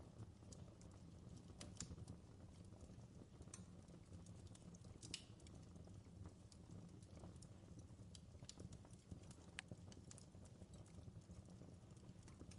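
Faint fireplace crackle: a steady low rumble of burning logs with irregular sharp pops and snaps scattered through it.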